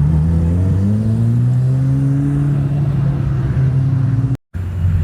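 A car engine pulling away, its pitch rising for about two seconds and then holding steady. The sound cuts out briefly near the end.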